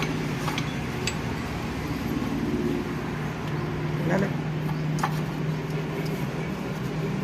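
A steady low mechanical hum with a few sharp metallic clinks, about four, spread through it, as of tools and parts knocking during work on a tractor gearbox.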